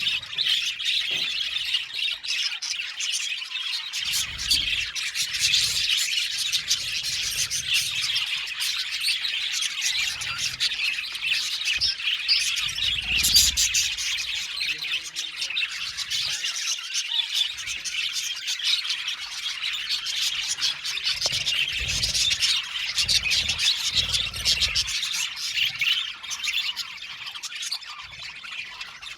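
A flock of budgerigars chirping and chattering without a break, many birds at once, with some squawks. Occasional low thuds come through underneath.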